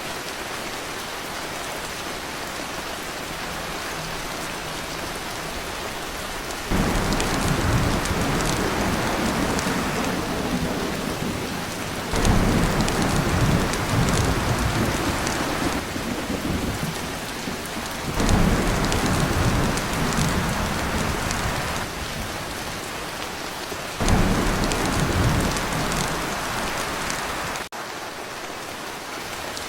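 Heavy rain pelting a tin roof, with deep thunder rumbles that set in abruptly about a quarter of the way in and swell again several times.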